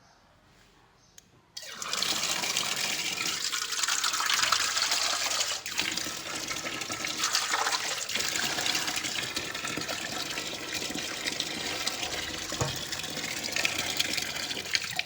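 Water running hard, starting suddenly about a second and a half in and rushing on steadily.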